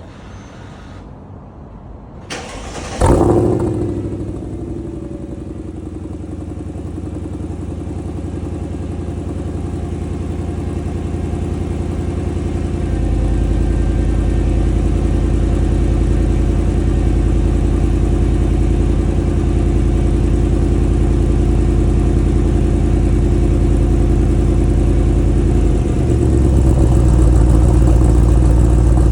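Mercedes E55 AMG's supercharged 5.4-litre V8 cold-starting through long-tube headers and a dual exhaust without a crossover pipe. The engine catches about three seconds in with a sharp flare of revs, then settles into a steady cold idle. Its low rumble grows stronger about halfway through and again near the end.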